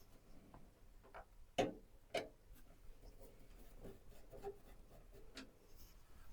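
Scattered light clicks and taps of PC parts being handled and fitted into a case, the two loudest about one and a half and two seconds in.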